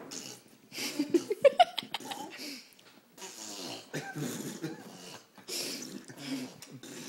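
Mouth noises from babies and an adult: a string of breathy, spluttering blows and raspberries, with short high-pitched vocal squeaks about one to two seconds in.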